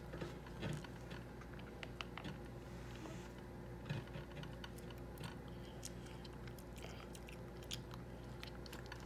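A toddler biting into and chewing orange segments: small irregular clicks and smacks of eating, over a faint steady hum.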